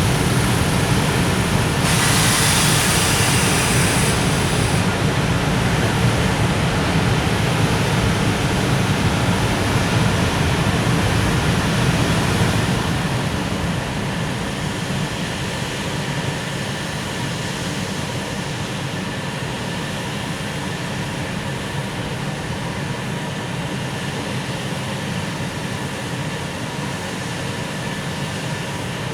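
A container freight train's wagons rolling along the rails as it pulls out, a steady low rumble of wheels. A brief hiss comes about two seconds in, and the rumble eases somewhat about halfway through.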